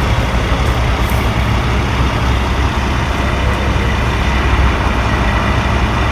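Steady, loud low rumble of motor vehicles running, with no distinct events.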